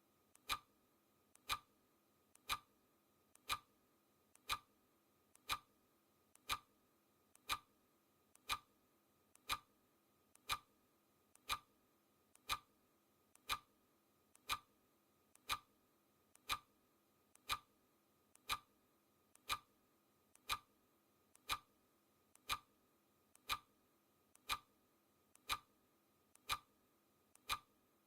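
Clock-ticking sound effect: one sharp tick a second, each with a fainter click just before it, keeping a steady even beat.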